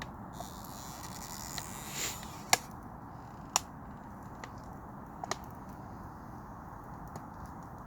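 Fire burning with a steady low rush and a few sharp crackles, the loudest about two and a half seconds in, others about a second and about three seconds later, and a brief hiss just before the loudest crackle.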